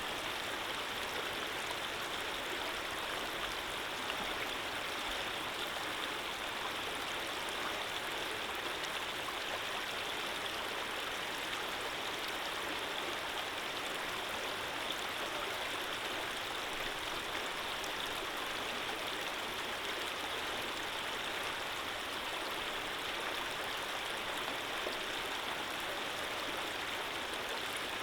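Running water of a gentle stream flowing steadily, an even rushing hiss with no single splashes standing out.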